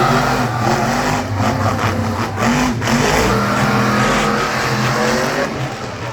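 Monster truck engine running, its revs rising and falling.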